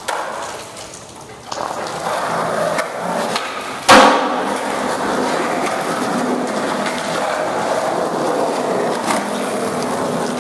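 Skateboard wheels rolling on pavement in a steady rumble, with one loud clack of the board about four seconds in.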